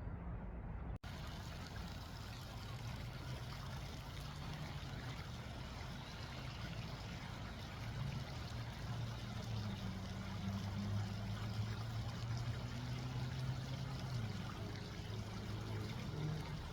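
Running water, a steady rushing hiss like a stream or fountain, with a low hum coming and going underneath.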